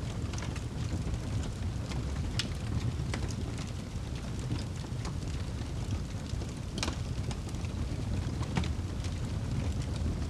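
Wood campfire crackling, with sharp pops every second or two, the strongest about two and a half, seven and eight and a half seconds in, over a steady low rumble.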